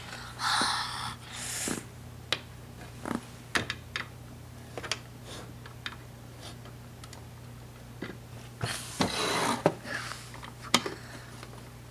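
Small plastic Lego pieces clicking and knocking together as they are handled, with short bursts of rustling near the start and again about nine seconds in, over a steady low hum.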